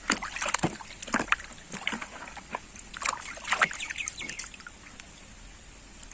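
Small, irregular splashes and trickles of water as a muddy toy hammer is washed by hand, thinning out after about four seconds.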